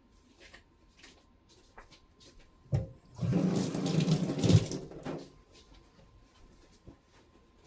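Kitchen tap turned on and water running into the sink for about two seconds, then shut off, with a sharp knock just before it starts.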